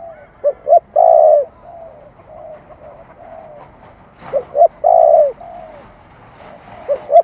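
Spotted dove cooing in the 'thổ' style: two short notes then one long, loud coo, with soft low cooing ('gù') between phrases. The phrase comes about every four seconds, twice in full, with a third starting at the very end.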